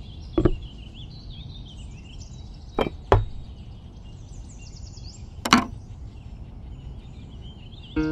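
Four light knocks of small handmade clay pieces being set down on a miniature brick model: one early, two close together near three seconds, one more later. Faint chirping runs underneath.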